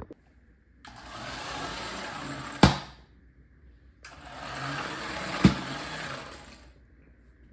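A battery-powered remote-control toy fire truck's small electric motor and gears whir in two runs of about two seconds each. There is one sharp knock during each run.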